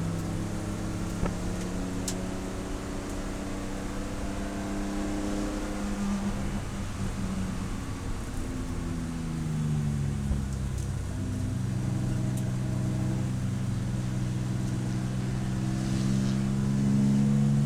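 Race car engine running on track, its pitch falling and rising with throttle and gear changes, then holding a steady high note and getting louder near the end.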